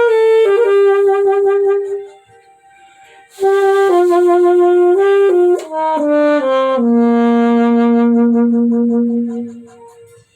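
Solo saxophone playing a slow, lyrical melody in sustained notes, pausing briefly about two seconds in, then settling on a long low held note that fades out near the end.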